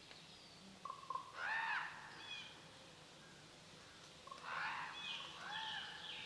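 Wild birds calling in the forest: two bursts of short, arching whistled notes, one about a second in and another after about four seconds, faint against a quiet background.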